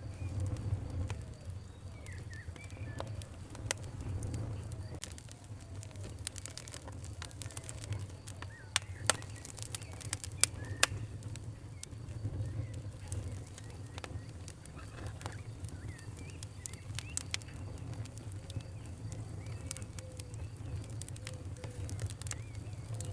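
Wood fire crackling, with scattered sharp pops, the loudest a cluster about nine to eleven seconds in, over a low steady rumble. Birds call faintly in the background.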